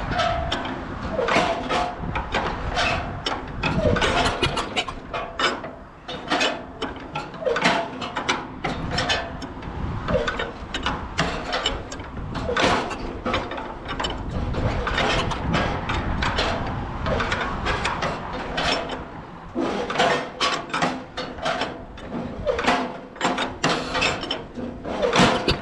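Farmall A tractor's four-cylinder gasoline engine running rough, with a dense run of irregular pops and knocks. It is a cold engine nearly stalling, which the operator then answers with less throttle and a little choke.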